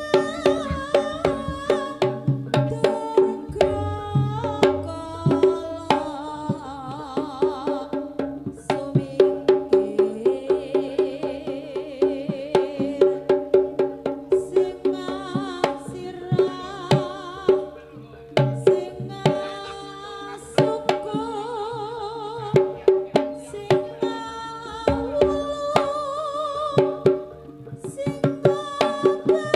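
Live Javanese traditional ensemble music for a kucingan dance: rapid hand-drum strokes over ringing pitched percussion, with a wavering high melody line weaving above.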